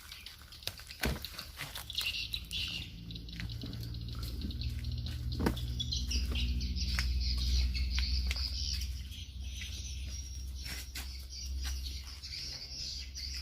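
Wild birds chirping, with scattered short clicks and a steady low rumble that grows louder in the middle.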